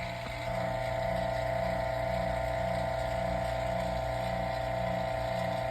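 Vacuum pump running steadily while pulling down a furnace's vacuum chamber toward about 28.5 inches of mercury. It makes a constant motor hum with a faint pulse about twice a second, and a higher steady tone joins about half a second in.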